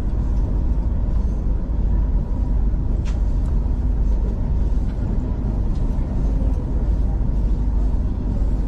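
Steady low rumble of a V/Line passenger train running along the line, heard from inside the carriage, with a single click about three seconds in.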